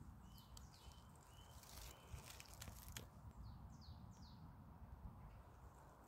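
Faint wild birdsong: several short chirps and quick down-slurred calls over a low rumble.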